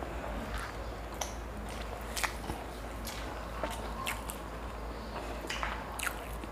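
Eating sounds of steamed momos and chow mein noodles being bitten and chewed by mouth, with scattered short wet clicks, the sharpest about two seconds in, over a low steady hum.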